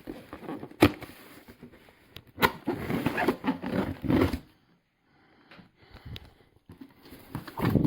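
Cardboard box being opened: a couple of sharp knocks, then rustling of the cardboard and plastic packing, and a few smaller handling noises.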